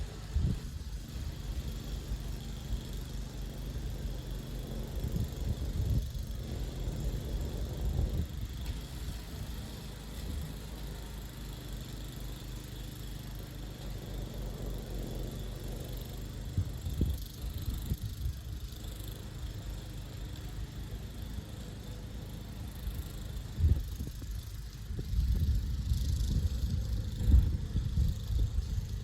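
Vehicle engine running steadily, with occasional knocks and rattles and a louder, busier stretch near the end.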